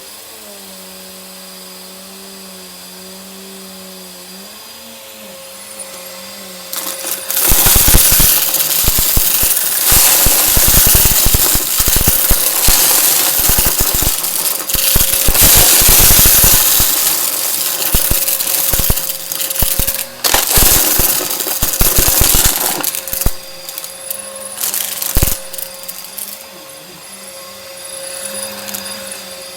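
A vacuum cleaner runs with a steady hum. From about seven seconds in, a loud, dense crackling and rattling sets in as crunchy debris is sucked up. After about twenty-three seconds it eases off to scattered crackles over the motor.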